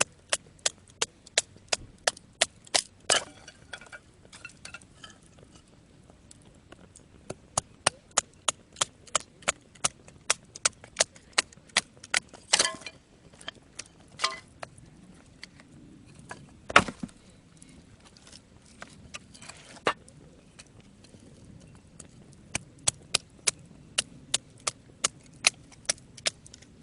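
Firewood being split with rhythmic knocks, about three strikes a second, in runs broken by short pauses and a few harder single blows.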